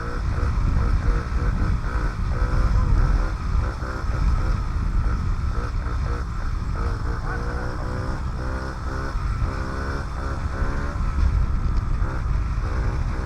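Small single-cylinder four-stroke engine of a 2007 Honda CRF50F mini dirt bike running under way, its pitch rising and falling again and again with the throttle, over a heavy low rumble.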